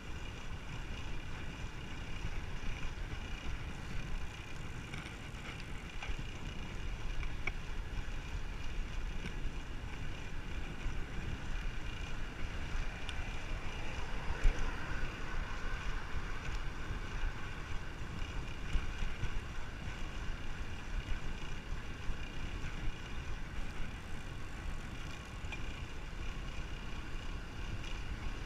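Wind rushing over the microphone of a camera riding along on a moving road bicycle: a steady low rumble with a faint, steady high whine.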